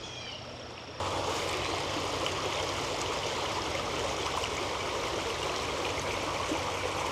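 A few short bird calls, likely gray catbirds, then about a second in, the steady rushing of a creek flowing over rocks begins abruptly and continues evenly.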